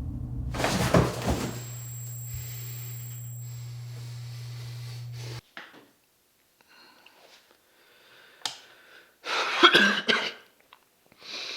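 A steady low drone that cuts off abruptly about five seconds in, then a man coughing near the end.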